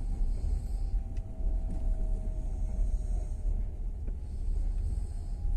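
Steady low rumble of a moving passenger train heard from inside the carriage, the wheels running on the rails, with a faint steady tone above it.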